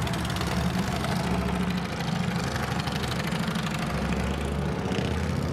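A 2012 Honda CRF250R's fuel-injected 250cc single-cylinder four-stroke engine idling steadily, with a fast, even firing beat.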